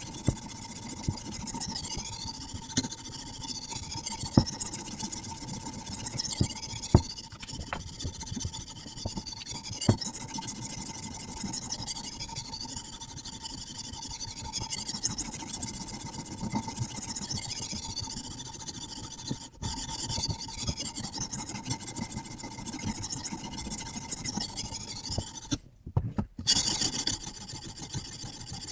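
Sharpening stone on a Hapstone RS guided sharpening system rasping along a carbon steel bushcraft knife's edge in repeated back-and-forth strokes, with occasional light clicks.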